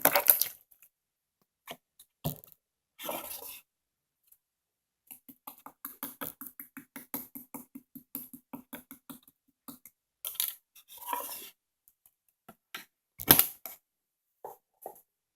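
Slime being squished and worked by hand: wet clicks and small pops, with a run of quick clicking pops in the middle and a sharper snap near the end.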